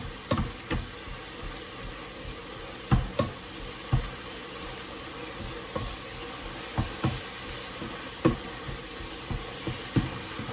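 Irregular light knocks and clatters of kitchen handling while cooking, about a dozen spread across the stretch, over a steady background hiss.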